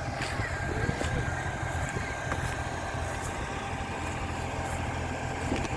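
Mini backhoe loader's engine running steadily, with a faint thin whine above the low engine hum.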